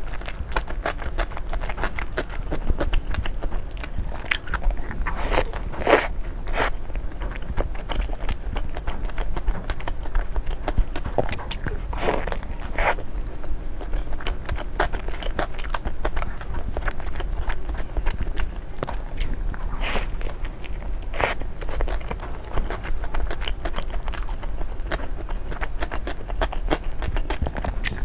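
A person biting and chewing crunchy food close to the microphone: a dense, continuous run of crisp crunches and clicks, with a few louder bites.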